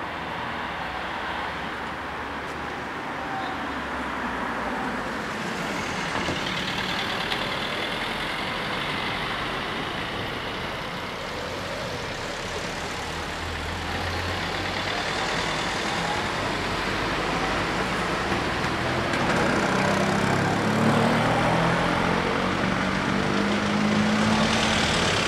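Road traffic waiting at a closed level crossing: car engines running at idle, with another vehicle's engine growing louder over the last few seconds as it pulls up close.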